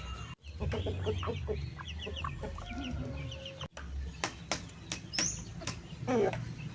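Free-range chickens clucking, a run of short calls, with a few sharp clicks; the sound drops out abruptly twice.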